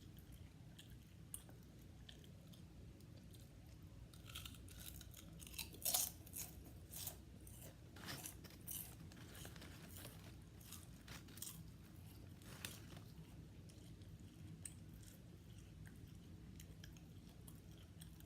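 Close-miked crunching and chewing of potato chips, with a run of crisp crunches through the middle and the loudest bite about six seconds in, over a steady low background hum.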